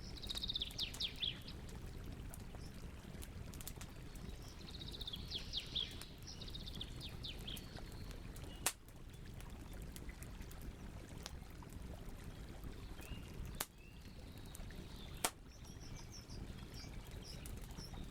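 Wood campfire burning with a steady low rush and three sharp pops, one about halfway through and two more near the end. A songbird sings two short bursts of quick descending notes, one at the start and one around five seconds in.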